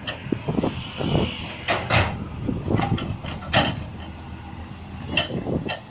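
Heavy vehicle engine running, with irregular metallic clanks and knocks over it and a few sharper strikes.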